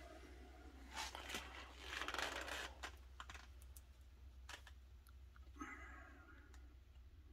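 Faint scattered clicks and a brief rustling scrape from handling stick-on wheel weights, peeling them and pressing them onto a wheel rim, over a steady low hum.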